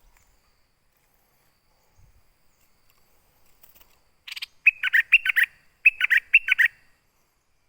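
A songbird, the southern 'nok dok taeng', sings two quick phrases of about five sharp, downward-sweeping notes each, a second apart. This is its call to a mate.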